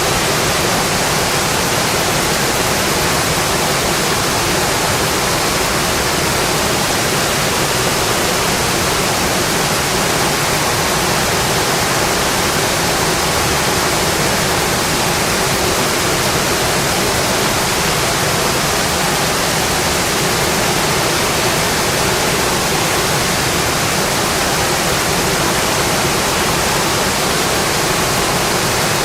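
Steady rain on a metal roof, an even, unbroken hiss.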